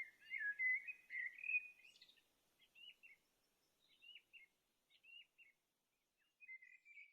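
A songbird singing: a rapid warbled phrase at the start, then short two-note chirps about once a second, and another warbled phrase near the end.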